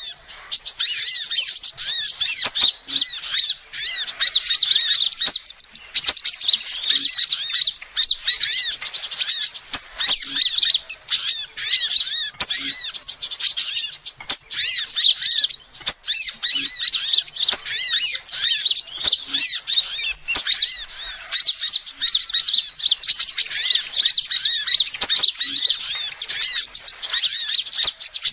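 Female sunbird calling: rapid high-pitched chirps and twittering trills, nearly continuous with a few brief pauses.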